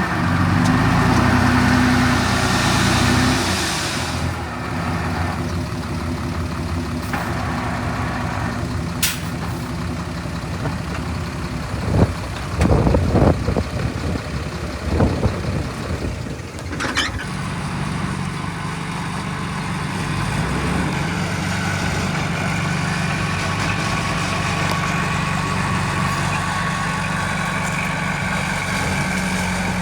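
Diesel engines of heavy earthmoving machines running steadily, the engine note shifting a few seconds in. About halfway through comes a cluster of loud knocks and rattles, followed by a short sharp hiss.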